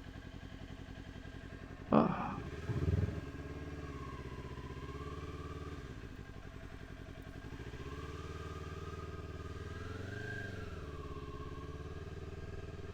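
Kawasaki Ninja 400 parallel-twin engine running at low revs, twice rising gently in pitch with light throttle. About two seconds in there is a sharp knock, and a duller thump follows a second later.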